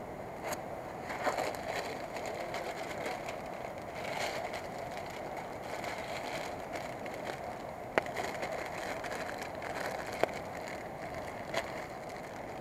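Wood campfire crackling: a steady hiss with a few sharp pops here and there.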